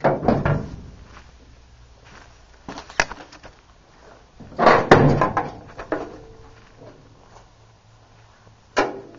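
Bouts of heavy clunking and knocking from metal being worked on a car body. There is a single sharp knock about three seconds in, a longer bout of clunks about five seconds in and a last knock near the end.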